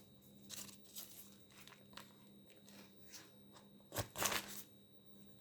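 Thin pastry sheets (warqa) rustling and crinkling faintly as they are handled, with a louder crinkle about four seconds in.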